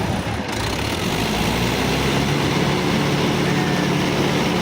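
Mahindra tractors' diesel engines running hard under heavy load in a tug-of-war pull, a steady, loud engine drone that dips briefly near the start.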